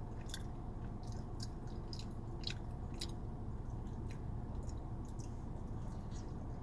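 A person chewing a mouthful of burrito close to the microphone: irregular wet mouth clicks and smacks, over a steady low hum.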